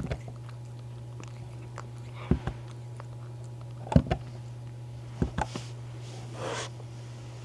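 A cat purring on a lap: a steady low hum, with scattered soft clicks and knocks, the loudest about four seconds in, and a brief rustle near the end.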